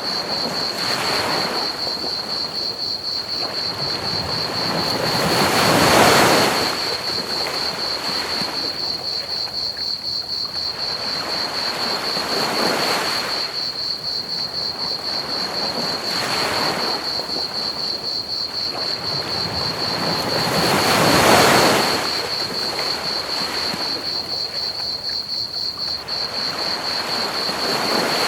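Ocean waves breaking and washing up a beach, swelling every few seconds, with two larger breakers about 6 and 21 seconds in. Under them runs a steady, high, fast chirping of crickets.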